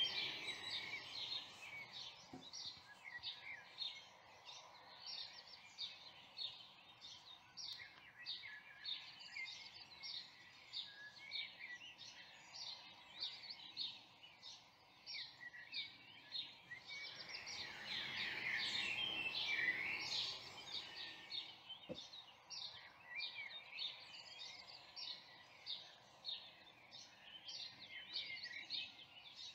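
Birds singing: many short, high chirps follow each other without a break, several birds overlapping. A broad rushing noise swells up under them about seventeen seconds in and fades after about three seconds.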